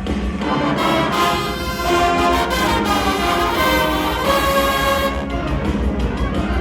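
Winds ensemble playing loud, held brass chords that shift every second or so over a steady low bass.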